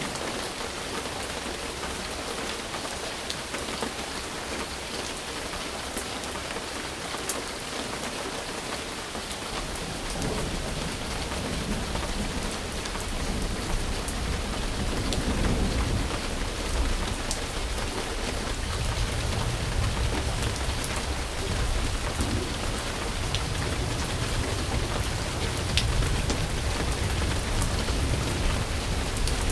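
Steady rain falling, an even hiss with scattered sharp drop ticks. About ten seconds in, a low rolling rumble of thunder builds under the rain and keeps going.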